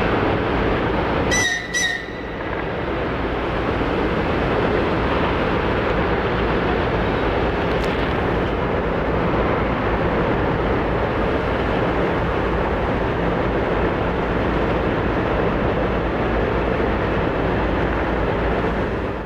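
Steady roaring rumble of a rock face collapsing, with two brief high whistling tones about a second and a half in.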